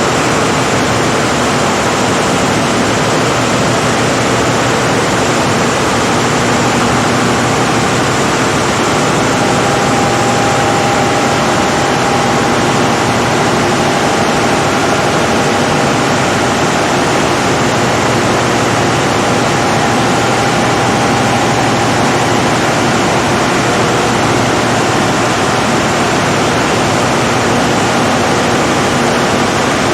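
Caterpillar 3516B generator set's V16 diesel engine running steadily at constant speed, a loud, even noise with faint held tones and no change in level.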